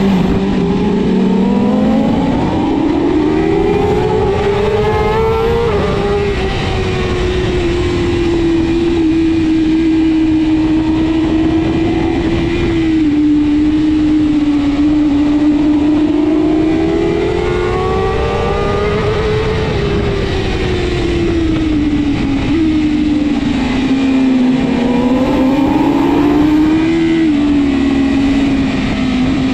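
BMW S1000RR superbike's inline-four engine running at racing speed, its pitch rising and falling over several seconds at a time through a sequence of corners, over a constant rush of wind noise. Twice the pitch steps down abruptly, as at a gear change.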